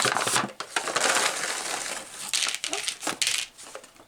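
Paper and cardboard packaging crinkling and rustling in a string of short, irregular crackles as the contents of a jigsaw advent calendar compartment are handled and pulled out.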